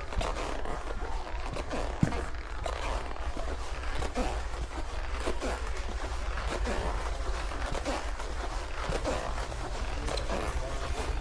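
Handling and rustling of goods, with small clicks and scuffs, over a steady low hum and faint background voices.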